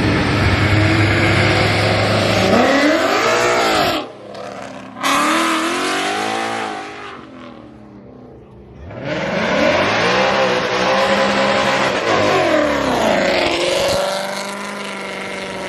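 A Ford Mustang's engine being revved hard at a burnout show. For the first three seconds there is a steady high-rpm note under a rough tyre-smoke hiss. After that the revs swing up and down several times, dropping away about halfway through, then climbing again and falling off near the end.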